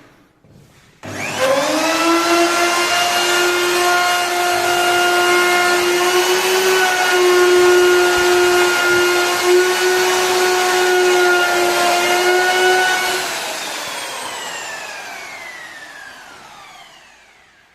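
An electric woodworking machine or power tool is switched on and runs up to speed with a steady whine. It is switched off near the end and spins down, its pitch falling as it fades.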